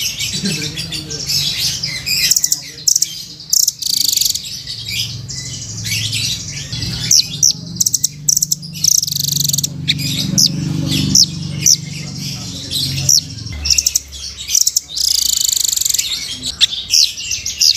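Velvet-fronted nuthatch (rambatan) calling: quick runs of high, sharp chirps and short trills, repeated again and again.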